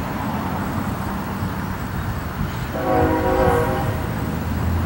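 A train horn sounds once, about three seconds in, holding for roughly a second, over a steady low rumble of a passing train.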